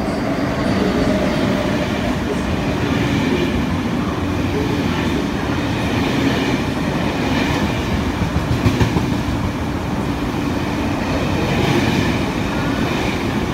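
KTT double-deck passenger coaches of an intercity through train passing at speed: a steady rumble and rush of steel wheels on rail, with quick clatter over rail joints that is loudest about nine seconds in.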